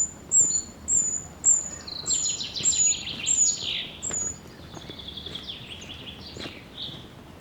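Songbirds singing: one bird repeats a short, very high note about twice a second through the first half, while another sings a fast run of lower notes that falls away and fades out after about five seconds.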